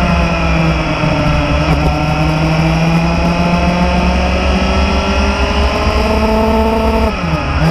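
Motorcycle engine running while riding, its pitch slowly sinking and rising again with speed; about seven seconds in the revs drop sharply and then come back up.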